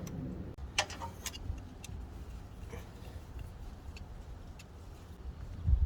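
A few scattered light clicks and taps over a low steady hum, with a dull thump near the end.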